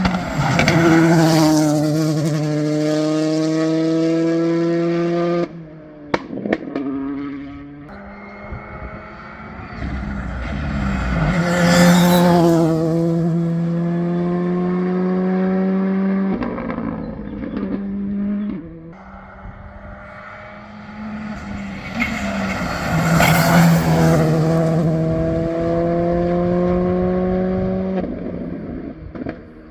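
Modern rally car engines at full throttle passing close by, three times in turn. Each time the engine note climbs steadily as the car accelerates, then drops sharply when the throttle is lifted. A few sharp cracks follow the first lift.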